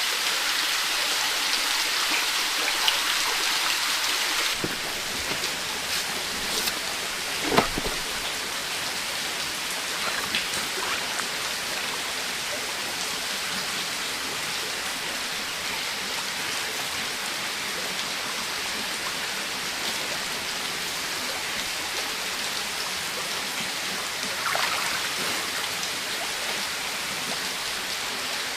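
Heavy rain falling steadily, an even hiss that drops a little after about four seconds, with a single sharp knock about seven and a half seconds in.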